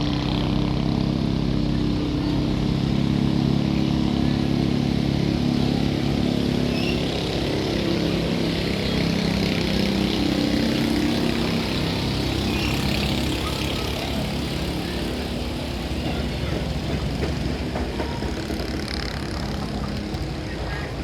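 An engine running steadily, its pitch shifting a little now and then.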